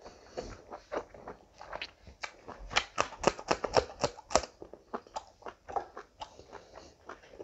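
Mouth sounds of a person chewing rice and chicken curry eaten by hand, with a quick run of sharp, crisp crunches in the middle.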